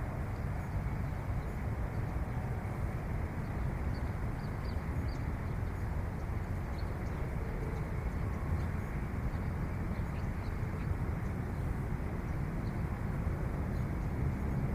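Steady outdoor background noise, mostly a low rumble, with faint high ticks now and then.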